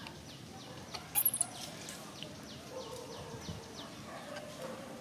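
Birds calling: a steady series of short downward-sliding chirps, about three a second, with a brief loud, shrill two- or three-note call about a second in.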